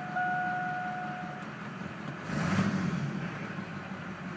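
Duramax 6.6 L turbo-diesel V8 idling, heard from the cab, with a steady high tone over the first second and a half. A brief louder rush of sound comes about two seconds in.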